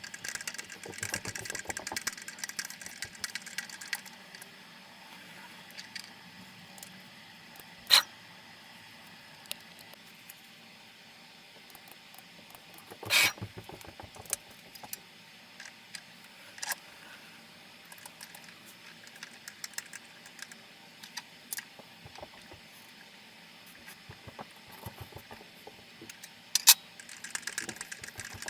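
Sieg X2 CNC mini-mill in a quiet workshop, with a faint steady hum throughout. The table's stepper drives buzz as it moves to the next hole in the first few seconds and again near the end. A few sharp metallic clicks come in between, the loudest about 8 and 13 seconds in, from tools and the tap being handled on the aluminum plate.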